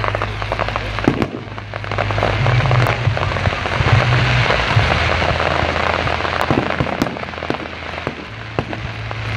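Aerial fireworks display: shells bursting in a string of sharp bangs, with a dense crackling that swells a couple of seconds in and fades near the end.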